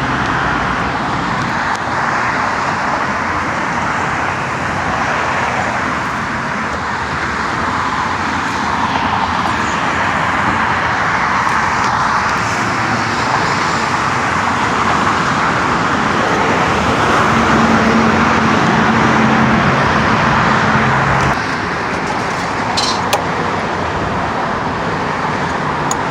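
Steady road traffic noise: passing cars and idling engines blending into a continuous rush, with a low engine hum standing out for a few seconds past the middle.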